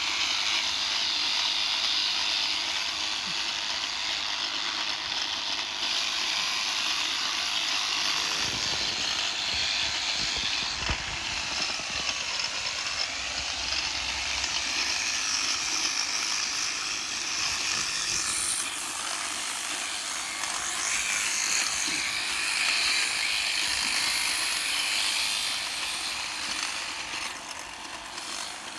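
Electric sheep shears running steadily, a continuous buzz with a hissing edge as the handpiece cuts through the fleece.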